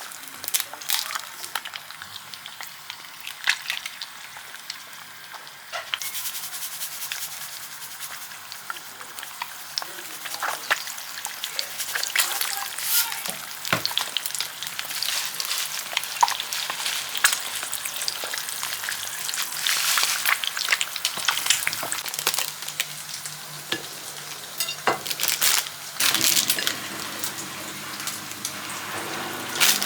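Food sizzling in a frying pan, with frequent sharp clicks and knocks of a utensil stirring it.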